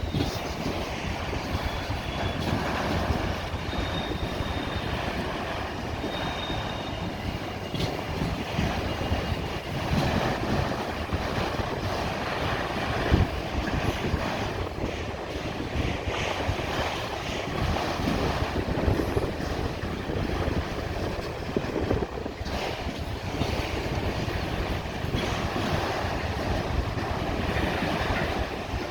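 Freight train cars rolling past, their steel wheels clattering steadily over the track, with a louder knock about 13 seconds in. Faint, brief, high-pitched squeals come a few times in the first several seconds.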